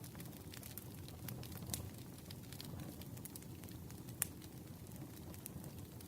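Wood campfire burning with a low steady rumble and irregular crackles and pops, one sharper pop about four seconds in.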